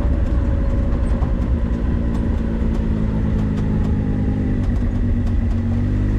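A 4x4 vehicle driving on a dirt road: its engine runs steadily under a heavy low rumble of tyre and road noise, with scattered small clicks.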